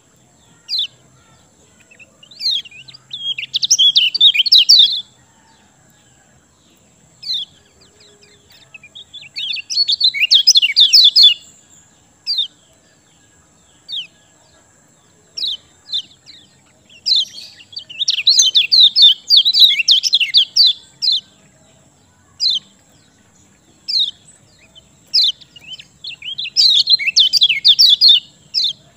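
Kecial kuning songbird singing in repeated one-to-two-second bursts of rapid, sharp chirping notes, with single short calls in between, in the vigorous full song that fanciers call gacor.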